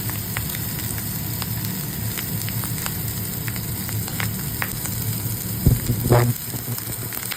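Halved hot link sausage sizzling in a hot frying pan, a steady hiss with scattered small pops. A brief, louder knock or scrape comes about six seconds in.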